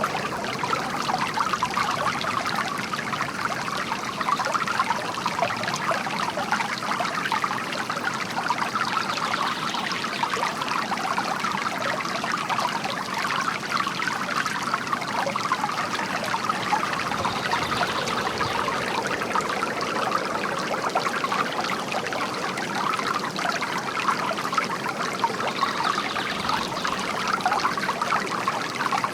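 Bamboo water fountain trickling and splashing steadily into its basin.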